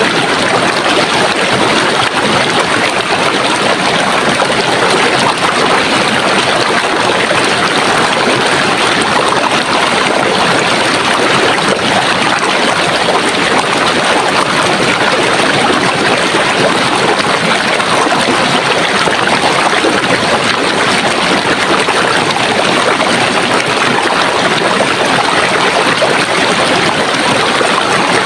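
Running water of a stream, flowing with a steady, even rush that does not change.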